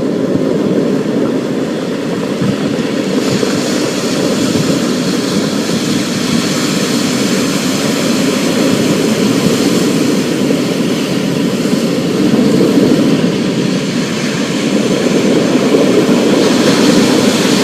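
Thunderstorm ambience: a continuous low rumble under a steady hiss of rain, the hiss growing brighter about three seconds in.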